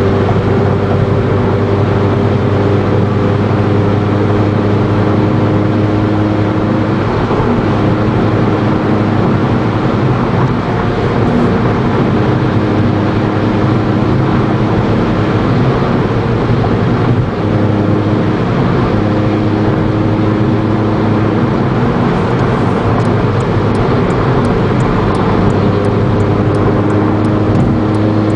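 2008 Honda Civic Si's 2.0-litre four-cylinder engine cruising steadily at about 65 mph through an Apexi N1 aftermarket exhaust: an even exhaust drone over road and tyre noise. Near the end a faint regular ticking comes in, about two ticks a second.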